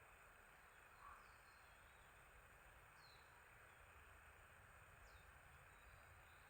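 Faint, distant small birds calling: three short, high chirps that slide downward, spread a couple of seconds apart, over a steady low hiss of outdoor ambience.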